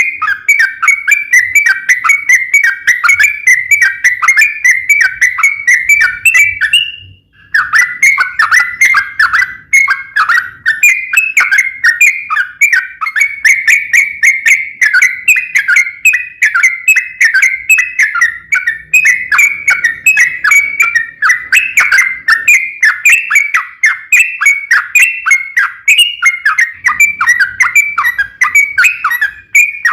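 Yellow-vented bulbul (trucuk) singing a long, rapid, chattering series of bubbly notes, broken only by a brief pause about seven seconds in. It is the long 'ropel' song used as a lure to set other trucuk birds calling.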